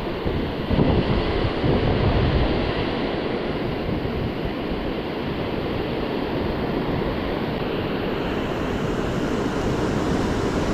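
Ocean surf breaking and washing on the beach, a steady rush with a louder swell about a second in, with wind buffeting the microphone.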